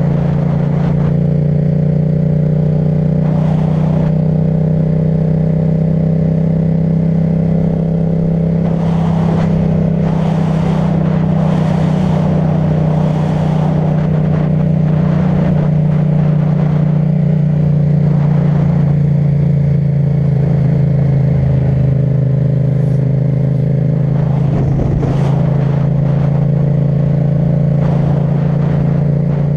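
Yamaha MT-07 parallel-twin engine with an Akrapovic titanium exhaust running at steady revs while riding, its note holding nearly constant. Wind hits the microphone in short gusts, a few of them close together about a third of the way through.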